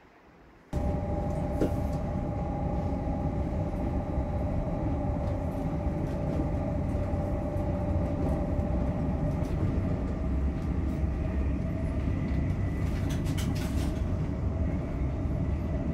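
Interior running noise of an electric passenger train travelling at speed: a steady low rumble with a constant whine over it. It starts abruptly less than a second in, and a brief cluster of clicks comes about thirteen seconds in.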